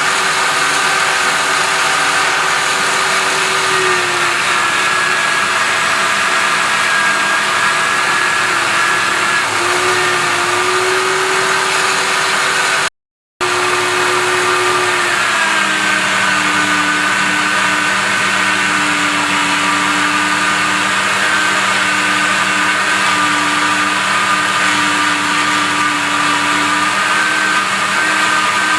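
Electric grinder running a rotating polishing brush against aluminium, a loud steady whine whose pitch dips now and then and settles lower in the second half. The sound cuts out completely for a moment about halfway through.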